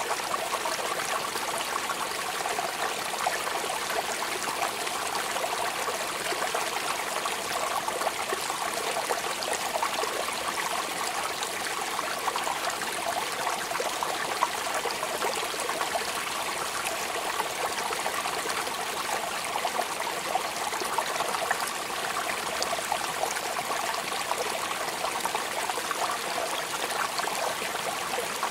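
Steady rain falling, an even hiss of many small drops that keeps up without change.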